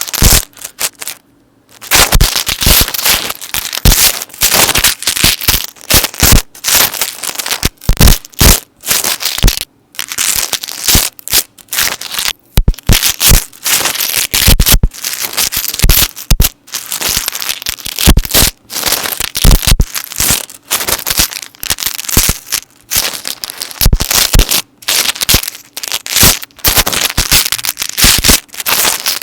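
Metal necklace chains handled close to the microphone: a dense, unbroken run of clinking and jingling, with a brief pause near the start.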